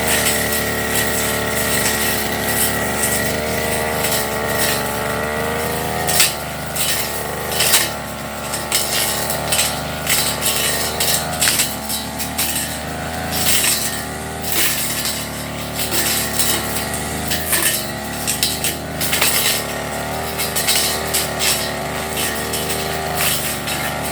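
A Firman FGB389FI brush cutter runs at high revs, its pitch sagging and recovering as it takes the load of the grass. Many sharp ticks and knocks come from the cutting head striking stems and debris.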